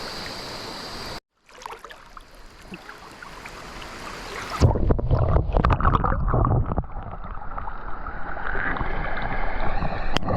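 Stream water flowing, then after a cut, wind buffeting the microphone over a Yamaha NMAX scooter engine while riding, its pitch rising steadily near the end as it accelerates.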